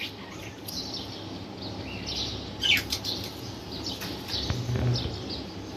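Small birds chirping in short, scattered calls over a low steady background hum.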